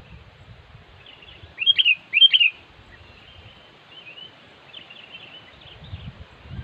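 Sooty-headed bulbuls calling: two loud, sharp close calls about two seconds in, over fainter chirping that goes on throughout.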